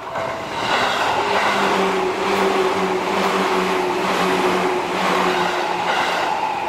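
Seibu electric train running past a level crossing: a steady noise of wheels on rail with a low hum through it, rising about half a second in.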